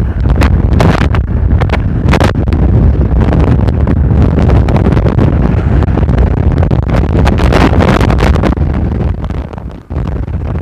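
Strong mistral wind buffeting the microphone in gusts, a loud low rumble that eases briefly near the end.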